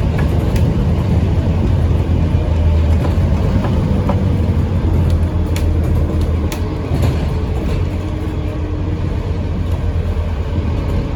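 Scania N230UD OmniCity bus's five-cylinder diesel engine running under load, a steady low rumble that eases about seven seconds in, with scattered clicks and a faint falling whine.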